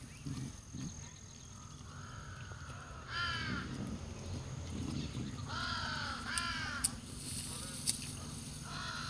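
A bird calling about four times in short, harsh calls, with a few sharp clicks in between near the middle.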